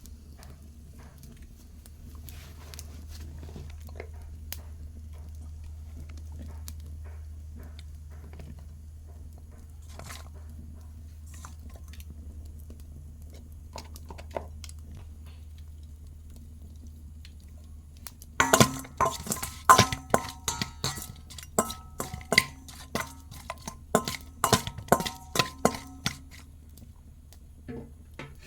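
A metal kitchen utensil clinking and knocking against metal cookware in an irregular run of sharp, ringing strikes that starts about two-thirds of the way in, after a long stretch of faint scattered clicks over a steady low hum.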